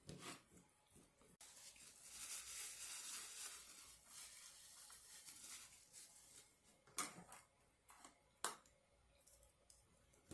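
Quiet eating and food-handling sounds: a few seconds of soft rustling starting about a second and a half in, then two sharp clicks near the end.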